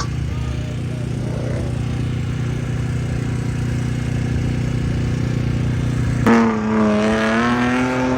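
Car engines idling steadily, then about six seconds in one engine revs up sharply and is held at high revs, its pitch wavering slightly.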